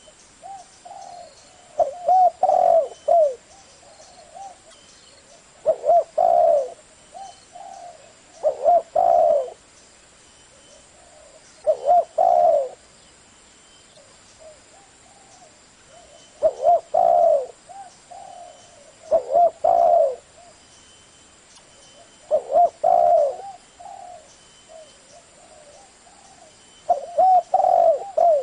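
Spotted dove cooing, repeating its song phrase of a few coo notes about every three seconds, eight phrases in all, with softer coos in between.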